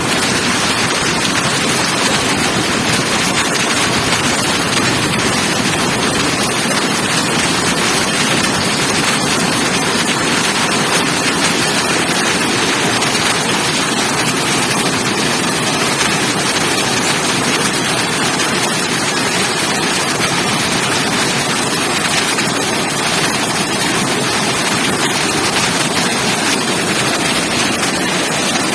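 Heavy hailstorm: a dense, steady downpour of rain and hail made of countless small hits, with wind.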